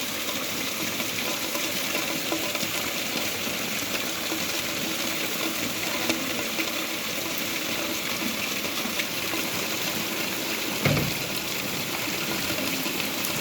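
Heavy rain falling in a steady hiss, with running and splashing water; one short low thump near the end.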